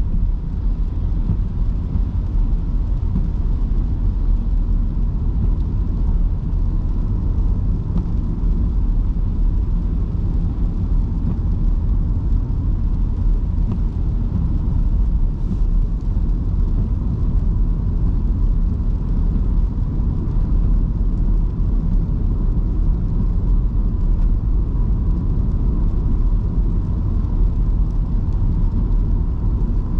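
Electric car driving on wet city roads: a steady low rumble of tyres and road noise, with a faint steady tone on top.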